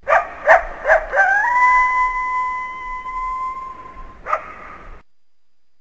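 Coyote giving three quick yips, then a long howl that rises briefly and levels off on one steady pitch, and one more yip near the end.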